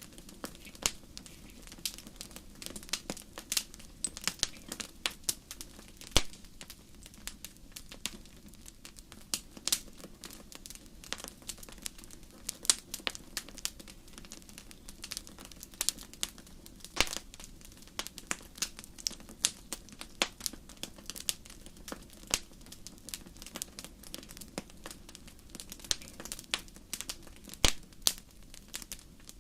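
Wood fire burning in a fireplace, crackling with irregular sharp pops over a low steady rush of flame, a few pops louder than the rest.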